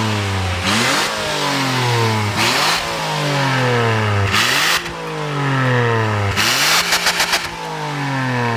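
Mitsubishi Outlander XL 3.0's V6 exhaust as the engine is revved in repeated throttle blips, about every two seconds: each rise is sharp, then the revs fall slowly back toward idle. One rev about two-thirds through breaks into a rapid stutter at its top.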